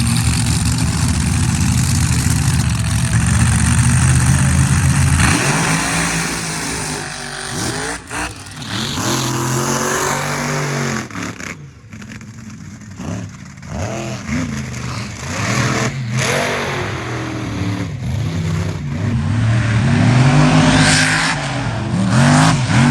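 A mega truck's supercharged, alcohol-fuelled 540 big-block Chevy V8 racing at full throttle. It holds flat out for the first five seconds or so, then revs up and down over and over, with short lifts off the throttle, through the jumps and berms.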